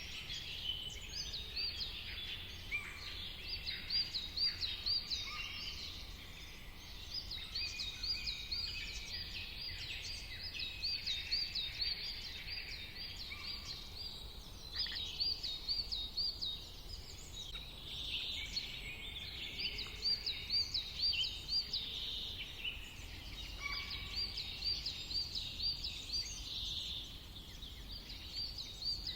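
Several birds singing and calling at once, one of them repeating a run of quick, high looping notes every few seconds, over a steady low rumble.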